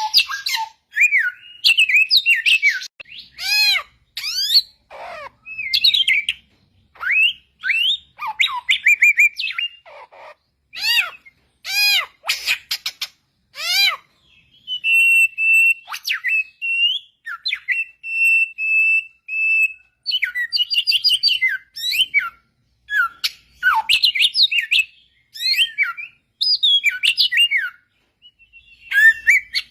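Samyong, an Indonesian endemic songbird, singing: clear, varied whistled phrases of quick rising-and-falling notes with short pauses between them, and a run of steady held whistles near the middle.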